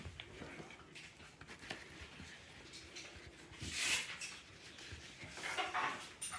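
Faint rustling of paper towels being folded by hand, with two brief louder rustles about four and five and a half seconds in.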